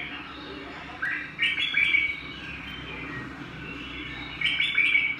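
A songbird singing in two loud bursts of quick chirping notes, one about a second in and the other near the end.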